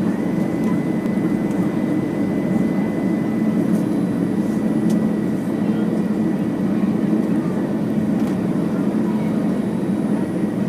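Steady cabin noise inside an Airbus A320 airliner in flight: an even low rush of airflow and engine hum, with a faint steady high whistle through it.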